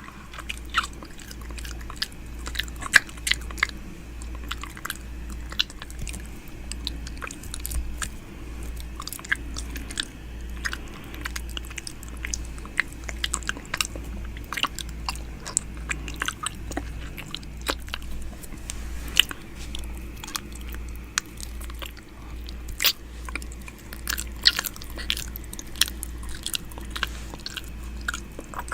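ASMR "ear eating": wet mouth sounds close against a microphone, a dense run of irregular clicks, smacks and nibbles, over a steady low hum.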